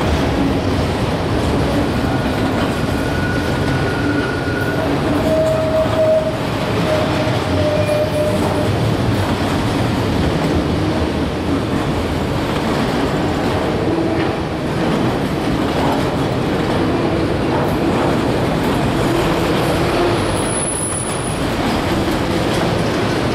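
Autorack cars of a CSX freight train rolling past: a loud, steady rumble of wheels on rail, with a few brief squeals of the wheels.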